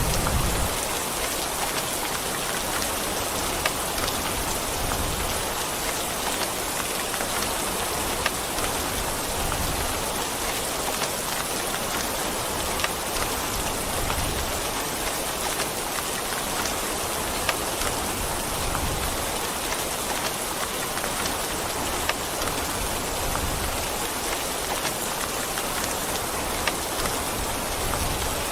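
Steady rain hissing on a surface, with a sharper single drop tick every few seconds.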